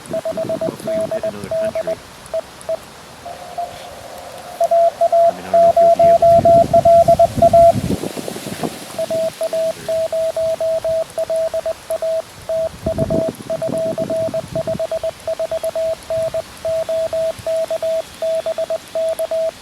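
Morse code (CW) tone at about 650 Hz from a QRP Labs QMX transceiver, keyed on and off in quick dits and dahs, with a louder stretch of keying from about four to eight seconds in.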